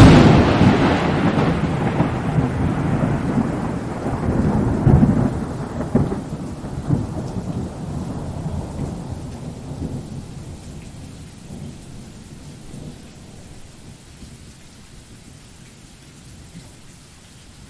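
A thunderclap breaks in suddenly over rain and rolls on in a long low rumble, swelling again about five seconds in. It then fades slowly, leaving faint steady rain.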